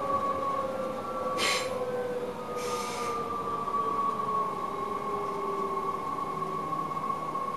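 Electric passenger train running, heard from inside the driver's cab: a steady whine that slowly sinks in pitch over the rumble of the run, with two short hisses about a second and a half and three seconds in.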